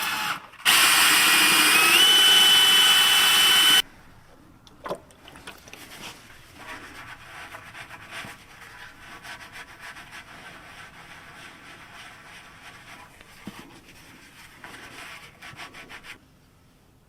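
A pneumatic air tool working on a tire puncture runs for about three seconds with a hissing whine that steps up in pitch partway through. Then about twelve seconds of quieter, uneven rubbing and scraping follow, the injury inside the tire being prepared and coated for a plug-patch.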